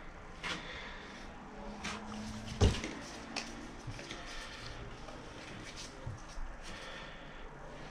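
Scattered clicks and knocks of hard objects being handled and set down, with one louder knock about two and a half seconds in, over a low steady background hum.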